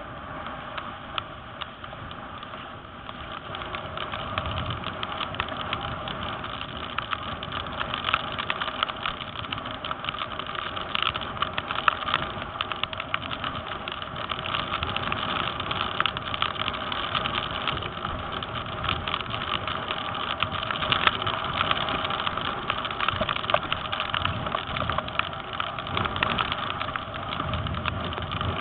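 Strong wind rushing over the microphone with water rushing and splashing, crackling with gusts, while windsurfing in strong, gusty wind; it grows louder after a few seconds.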